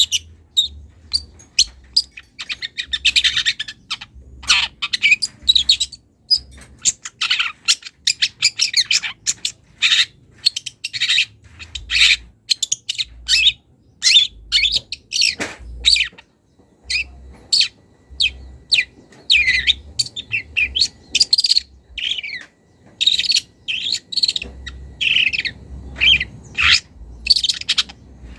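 Young long-tailed shrike singing a fast, varied run of short chirps, squeaks and gliding notes, mixing in phrases mimicked from other birds' songs.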